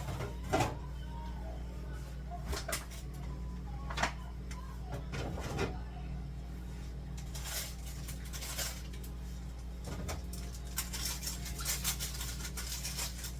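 Kitchen items and containers being handled and set down: scattered light knocks and clatter, with a quicker run of rustling clatter near the end, over a steady low hum.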